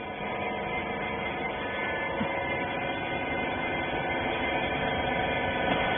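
Steady machine hum with several constant tones, typical of an electric motor and hydraulic pump running at a constant load on a bagging baler.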